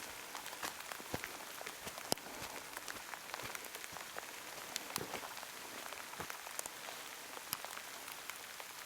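Heavy rain falling steadily, a constant hiss with many sharp ticks of single drops striking close by.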